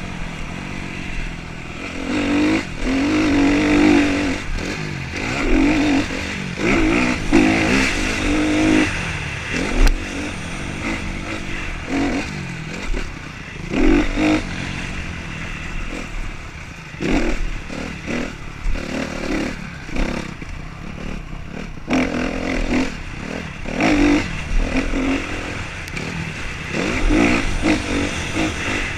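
Motocross dirt bike engines revving hard, rising and falling in repeated surges as the bikes accelerate and ease off.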